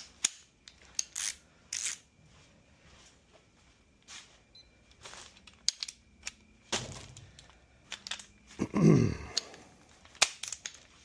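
Sharp metallic clicks and knocks of hand tools, a wrench and socket being handled and fitted on the engine block's main bearing cap bolts ahead of torquing. A louder clatter comes about nine seconds in.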